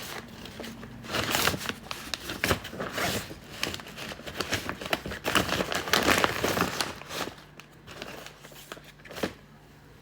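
Crinkling and rustling, as of something being handled close to the microphone, dense from about a second in until about seven seconds in, then one sharp click near the end.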